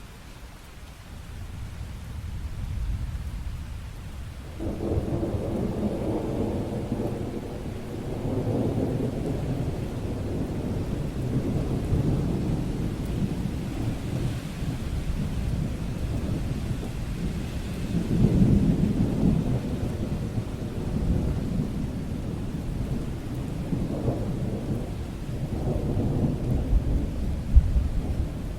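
Rolling thunder rumbling over steady rain. The rumble starts a few seconds in and swells and fades in long waves, loudest about two-thirds of the way through, with a sharper crack near the end.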